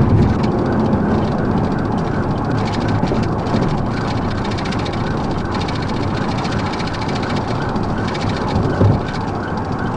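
Steady road and engine noise of a vehicle driving at speed.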